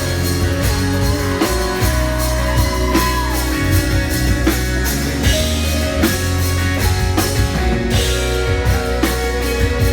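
Live rock band playing an instrumental stretch of a song: electric guitar and drum kit over a steady beat.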